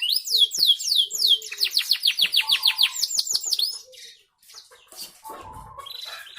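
Domestic canary singing: a run of quick falling whistled notes that speeds up into a rapid trill about a second and a half in, then stops abruptly near four seconds, leaving fainter sounds.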